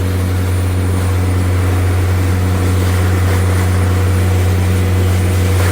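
Boat engine running steadily underway, a deep, even drone with a constant hum, over a hiss of wind and water.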